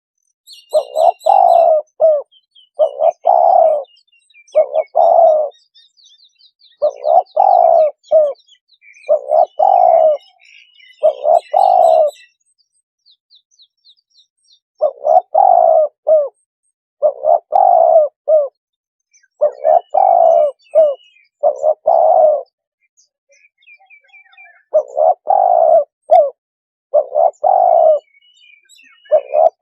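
Spotted dove cooing call played as a trapping lure: short hoarse coo phrases repeat about once a second, with two brief pauses. Faint high chirps of small birds sound over it, mostly in the first half.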